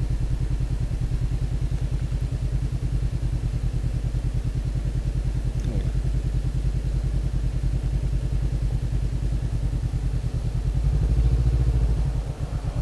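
Honda CBR500R's parallel-twin engine idling with an even low throb, picking up a little about ten and a half seconds in.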